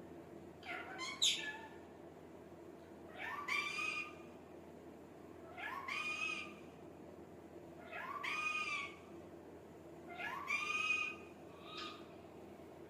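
Ringneck parrot calling: a few short squawks, then a drawn-out, meow-like call that rises in pitch, repeated four times about two seconds apart.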